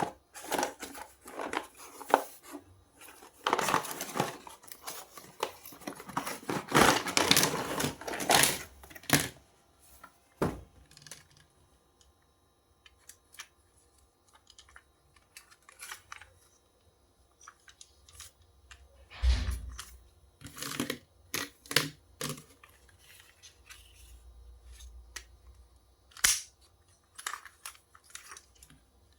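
Toy packaging being torn and rustled open by hand, in dense bursts for the first ten seconds or so, then quieter handling with scattered clicks and short rustles.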